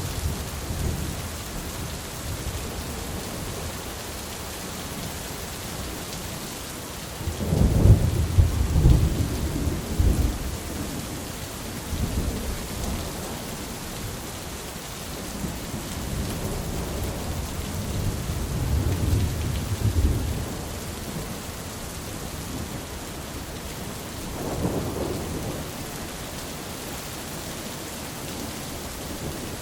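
Steady heavy rain hiss with rolling thunder: a loud rumble about a third of the way in, further lower rumbles in the middle, and a fainter one near the end.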